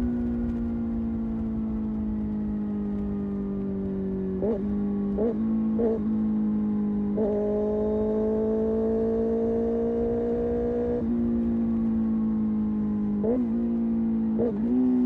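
Kawasaki Ninja ZX6R inline-four engine and exhaust under way at moderate revs, the pitch drifting slowly. There are three quick throttle blips about four to six seconds in and two more near the end. The pitch steps up suddenly around seven seconds in and drops back around eleven.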